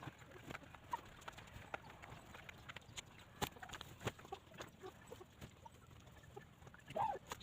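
Hens pecking at the ground: scattered soft taps and ticks, two of them louder in the middle. A hen gives a short cluck near the end.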